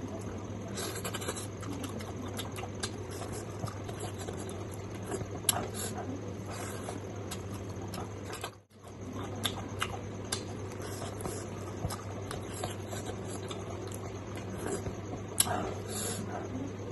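Close-miked chewing and lip-smacking of a person eating fatty pork and rice with the hands, with many small wet mouth clicks over a steady low hum.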